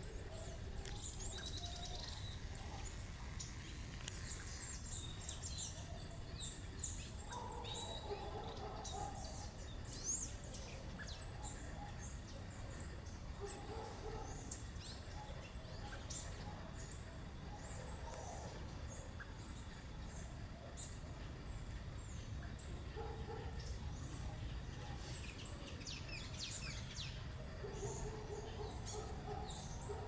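Garden birds chirping and calling, many short high-pitched chirps coming one after another, with some lower calls now and then, over a steady low background rumble.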